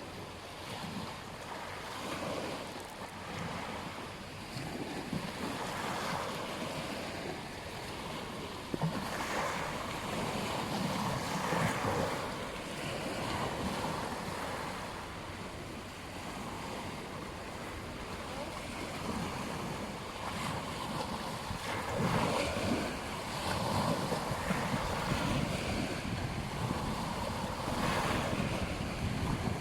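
Ocean surf: waves breaking and washing up the beach in a continuous wash that swells and falls every few seconds, with wind buffeting the microphone.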